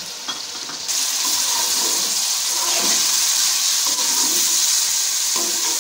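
Sliced onions, tomatoes and ginger-garlic paste frying in hot oil in a kadai while being stirred: a loud, steady sizzle that jumps louder about a second in.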